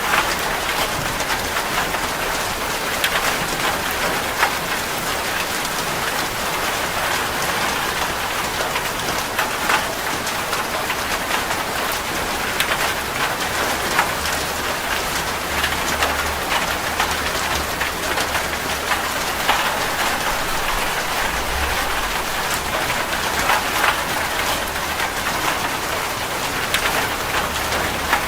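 Steady rain falling on a hard surface, with a dense, even hiss broken by many sharp individual drop ticks. A faint low rumble swells and fades a few times.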